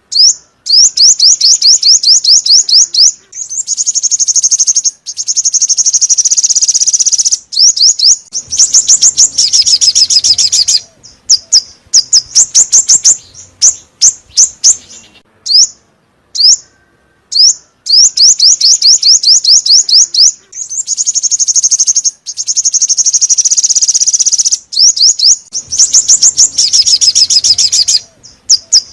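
Song of the bird known in Vietnam as 'chim 5 màu' (five-colour bird), played as a lure call: loud, rapid series of high chirps and trills. They come in bursts of one to three seconds, broken by short pauses.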